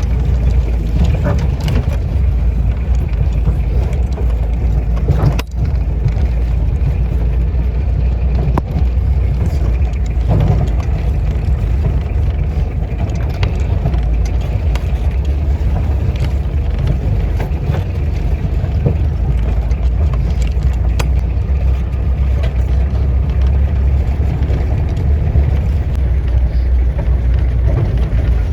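Motorcycle riding on a rough off-road mountain track: a steady low rumble of engine and wind on the microphone, with scattered small knocks and rattles.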